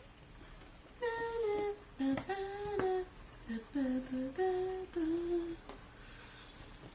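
A person humming a short tune, about a dozen held notes from about a second in until near the end, with a few light clicks among them.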